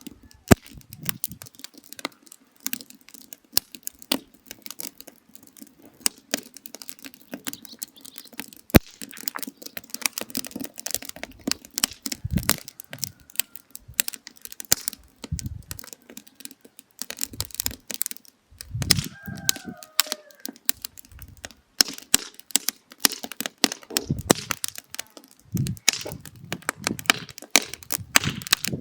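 Burning firewood crackling and popping steadily with many sharp snaps, while low rushing swells of flame or air rise and fall now and then.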